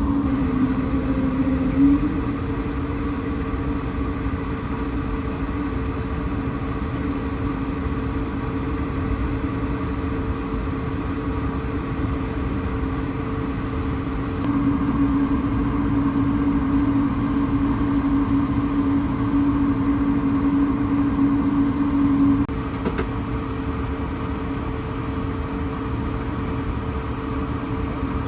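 Airbus A220-300 cabin noise: the engines and airflow make a steady hum with a low rumble and a steady tone. It grows somewhat louder about halfway through and drops back suddenly near three quarters of the way.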